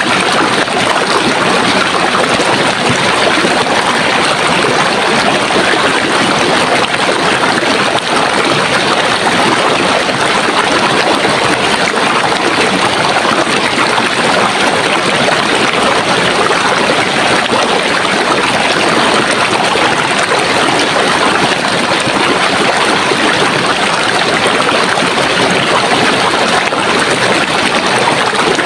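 Running water from a stream: a steady, even rush with no change or pause.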